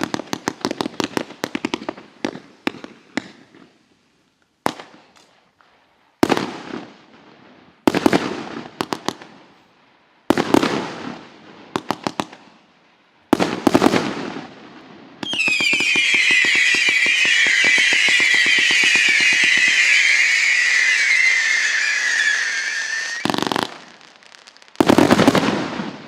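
Multi-shot firework cake (146-shot battery in 0.8 to 1.5 inch calibres) firing. It opens with rapid volleys of launch pops, then comes a run of separate volleys, each trailing off in crackle. From about fifteen seconds in, a cluster of whistling shots shrieks loudly for around eight seconds, the pitches wavering and sliding slowly down, before two more heavy volleys near the end.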